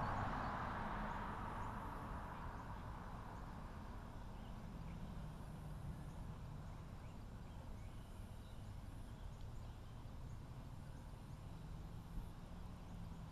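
Radio-controlled stadium trucks running on a track: a rushing noise, loudest at the start, fades away over the first few seconds, leaving faint, distant running.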